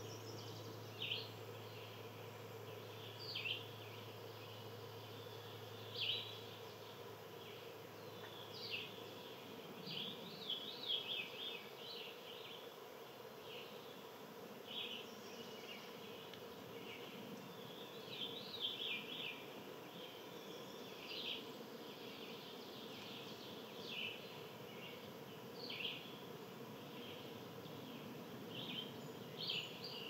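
Small birds chirping: short, high call notes every couple of seconds, sometimes in quick clusters, over a steady low background hum.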